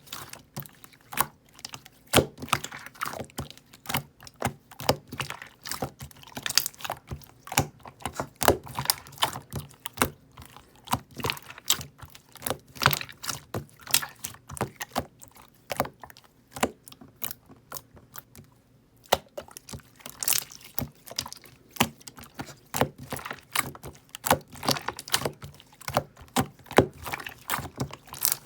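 Hands squishing, pressing and poking slime, giving a dense, irregular run of wet clicks and pops, with a short lull about two-thirds of the way through.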